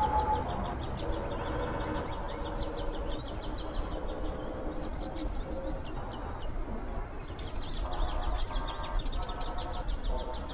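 Birds calling over a steady low rumble, with a fast, even ticking chirp throughout and fuller calls near the end.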